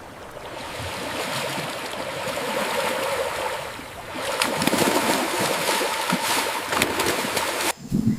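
Flowing river water, a steady rush with splashing that grows louder about four seconds in and cuts off abruptly near the end.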